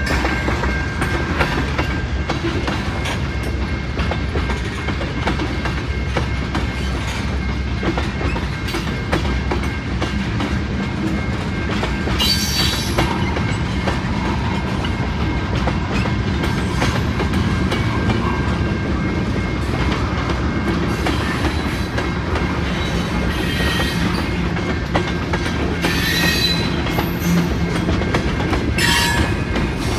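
Freight train rolling steadily past, its wheels clacking over rail joints, with a few brief high-pitched wheel squeals.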